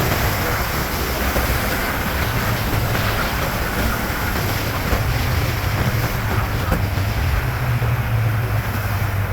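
Yamaha MT-07's parallel-twin engine running at steady low revs through a LeoVince underbody exhaust while riding, with wind rushing over the microphone.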